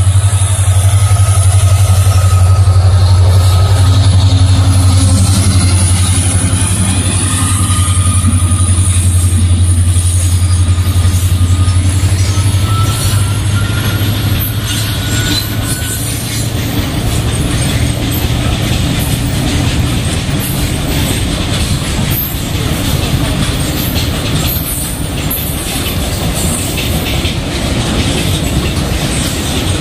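Diesel-hauled freight train passing. The locomotive's engine drones low through the first half, then the wagons rumble and clatter steadily over the track, with faint thin wheel squeals.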